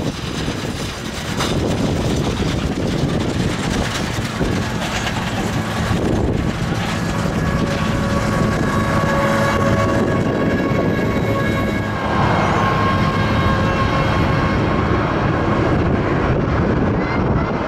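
Jet airliner engines running loud, with a steady whine that drifts lower in pitch as the aircraft moves past. Strong wind buffets the microphone throughout.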